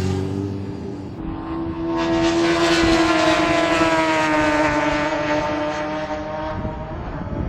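Motorcycle passing at speed on a race track: its engine note swells about a second in, then slowly falls in pitch and fades as it goes by.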